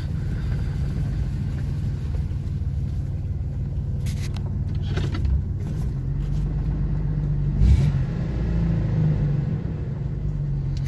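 1989 Chevy S10 Blazer's 4.3-litre V6 running steadily under way, a low drone, with a few sharp clacks about four and five seconds in and a heavier thump near the end. The owner takes the rattle for the exhaust system clacking against the body.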